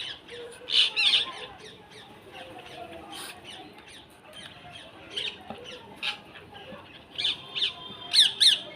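Birds calling: a scattered series of short, sharp high-pitched calls with quiet gaps between them, and a loud pair of calls near the end.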